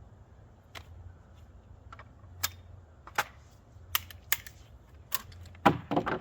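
Sharp metallic clicks and clacks of a double-barrel shotgun being worked with snap-cap dummy shells during a reload drill: the action handled and the shells pulled and loaded. The loudest clack comes near the end, followed by a short run of rattling clicks.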